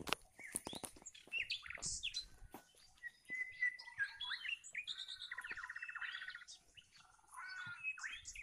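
Several birds calling together: quick chirps, whistled slides and a fast trill. Footsteps on dry leaves and grass sound in the first couple of seconds.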